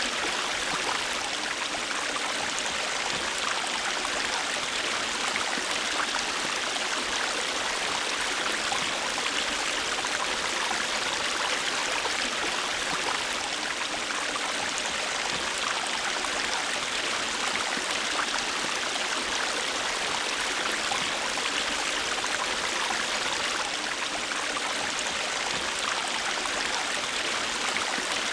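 A river or stream flowing steadily, an even rushing of water without breaks or separate splashes.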